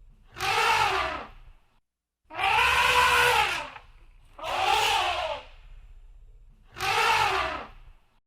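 Elephant trumpeting: four loud calls about a second long each, separated by short gaps, each rising and then falling in pitch.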